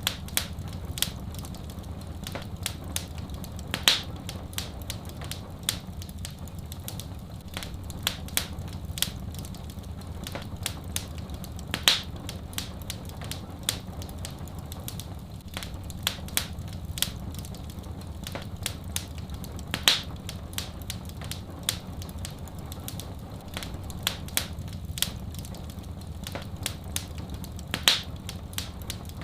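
Wood fire crackling: many small sharp pops and snaps, with a louder pop about every eight seconds, over a steady low rumble.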